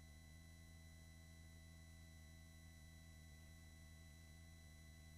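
Near silence: a faint steady hum with several held tones, the background of the helicopter's intercom audio feed between the pilot's remarks.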